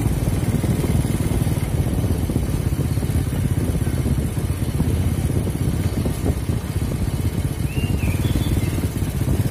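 A motor vehicle travelling along a road: a steady, uneven low rumble of engine and road noise.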